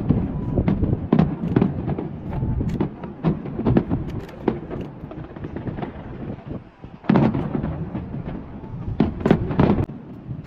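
Fireworks going off in rapid, overlapping bangs and crackles. The bangs thin out briefly about six seconds in, then a dense new volley starts around seven seconds, with a few sharp cracks near the end.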